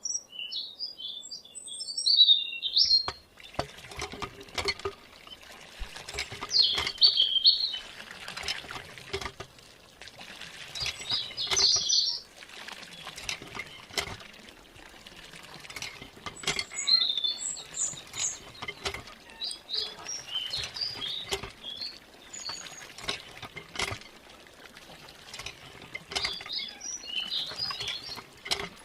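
Small birds chirping on and off in short clusters of high notes, over scattered sharp clicks and light knocks.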